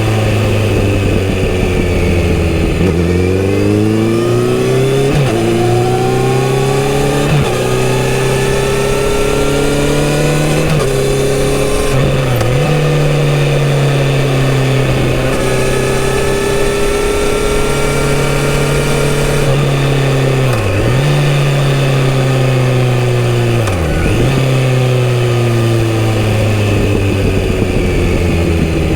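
Kawasaki Z900RS inline-four running through its stock full-system exhaust while riding. It pulls through several quick upshifts in the first dozen seconds, the pitch climbing in each gear and dropping at each shift, then holds a fairly steady cruise, dips briefly twice, and falls in pitch near the end as the bike slows.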